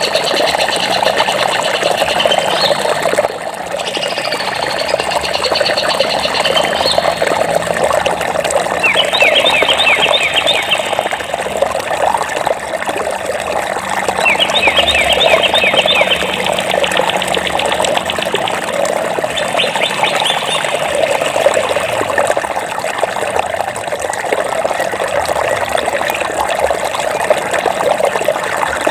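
Flowing stream water running steadily. Birds chirp over it, with bursts of rapid trilled notes three times, several seconds apart.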